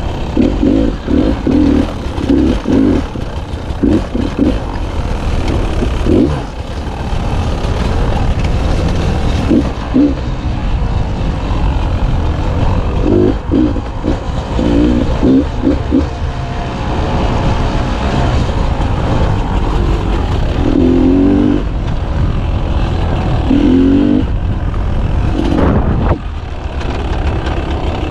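Beta 300 two-stroke dirt bike engine being ridden, its revs rising and falling with a burst of throttle every few seconds.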